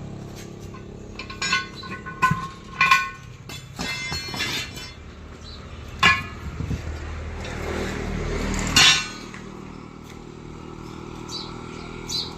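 Hand tools striking the steel rim of a truck wheel during tyre dismounting: a run of sharp, ringing metallic clangs in the first few seconds, another around the middle, and a loud strike near the end over a low rumble.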